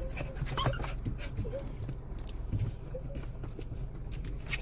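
Irregular light footsteps and paw taps on a walk, over a steady low outdoor rumble, with a few faint wavering tones.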